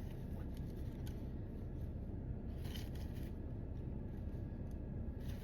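Light rustling and a few clicks of small plastic clip-on decorations being handled and fixed onto an artificial vine, over a steady low hum. The handling noises come in two short patches, about halfway through and near the end.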